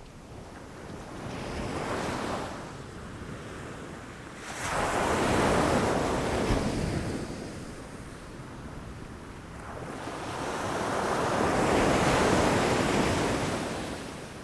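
Ocean waves breaking against rocks, in three surges of surf: a smaller one in the first couple of seconds, a louder one crashing in abruptly about four and a half seconds in, and another swelling more slowly near the end.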